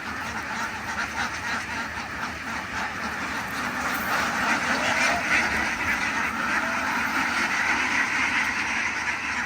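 A large flock of farm ducks quacking together in a dense, continuous chorus, growing louder about four seconds in.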